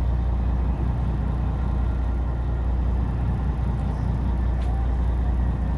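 Fishing boat's engine running, a steady low drone.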